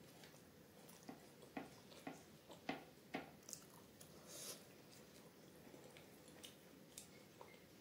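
Faint close-up chewing of grilled paneer: a run of soft, wet mouth clicks in the first three seconds, then quieter chewing with a few lighter clicks near the end.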